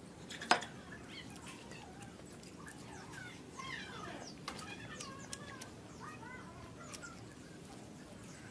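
Small birds chirping in short, pitch-bending calls, with a single sharp click about half a second in.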